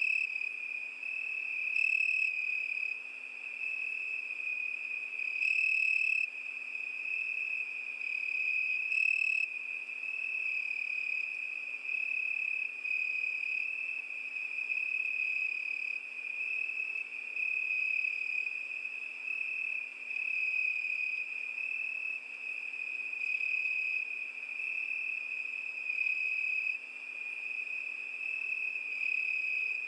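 Crickets trilling, a continuous high-pitched chirring that swells louder a few times in the first ten seconds.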